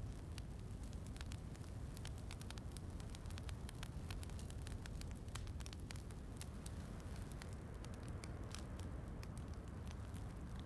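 Wood fire crackling in a fireplace, with quick sharp pops scattered over a steady low rush. The pops thin out near the end.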